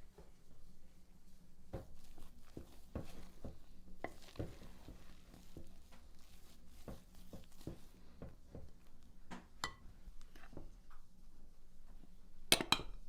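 Cookware and utensils being handled: scattered light knocks and taps, then a sharper clatter of clinks near the end.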